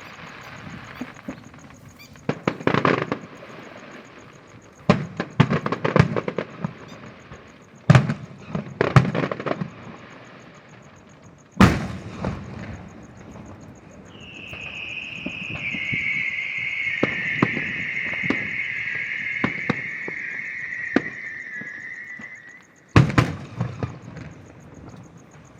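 Aerial fireworks and firecrackers going off: clusters of rapid crackling bangs about two, five and eight seconds in, and a single sharp bang near twelve seconds. Then comes a long high screech lasting about eight seconds, slowly dropping in pitch, and another burst of bangs near the end.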